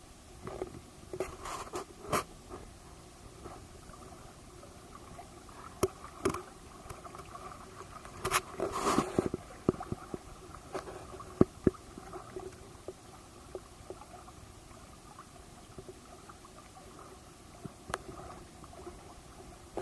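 Small boat's motor running steadily at low speed, with water gurgling and scattered knocks and clatter, loudest around the middle.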